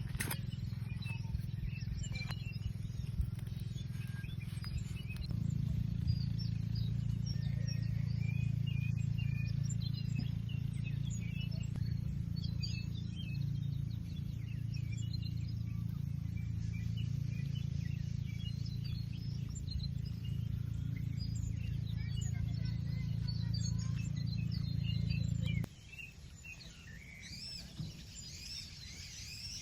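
Many small birds chirping over a steady low hum. The hum gets louder about five seconds in and cuts off suddenly near the end, leaving the birdsong clearer.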